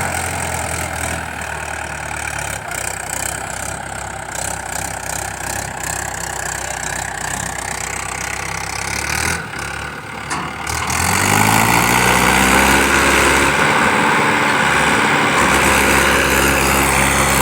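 Heavy vehicle engine idling steadily, then about eleven seconds in it revs up louder and higher and holds there.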